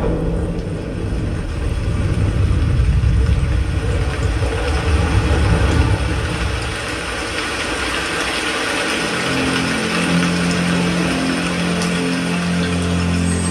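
Demo soundtrack played through a Logitech Z906 5.1 speaker system: a heavy, deep rumble that dies away about seven seconds in. Sustained low music notes take over from about nine seconds in.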